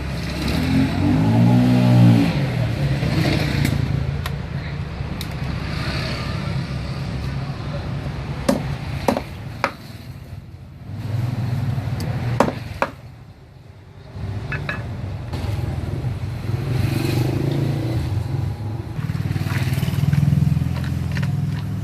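Engine noise of a motor vehicle, rising and falling in pitch near the start, over a steady low hum, with a few sharp clicks or knocks in the middle.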